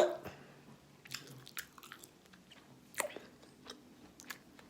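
A person eating and chewing food close to the microphone: a few short, irregular mouth clicks, the loudest about three seconds in.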